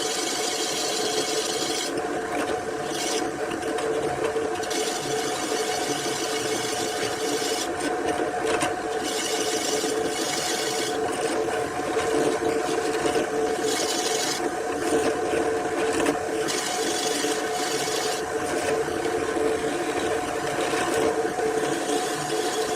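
Small electric power tool running steadily on wood, its motor holding a constant hum while high-pitched rasping from the work starts and stops every second or two as the tool bites and eases off.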